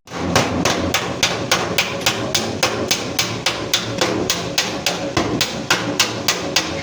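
Hammer blows on sheet metal in a fast, even rhythm of about four to five strikes a second: panel-beating the accident-dented front body of a Suzuki Ravi pickup.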